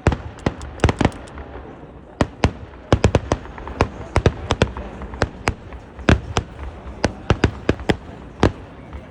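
Eeduvedi fireworks bursting in a long run of sharp bangs at irregular intervals, often several a second, with a rumble between them.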